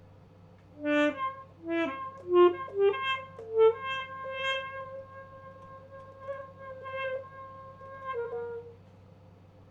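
Alto saxophone played solo: after a short pause, a quick run of short notes climbing upward, then one long held note with slight swells, ending on a brief, slightly lower note a little after eight seconds in.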